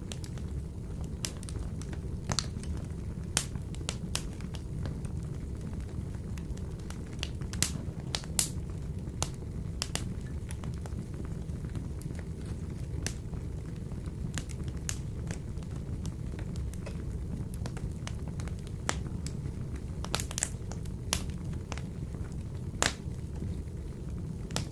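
Wood fire burning in a wood stove: a steady low rumble of flames with sharp, irregular crackles and pops, a few coming in quick clusters.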